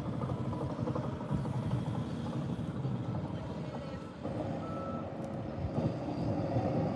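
Heavy machinery running with a reversing alarm beeping several times, over a steady low rumble.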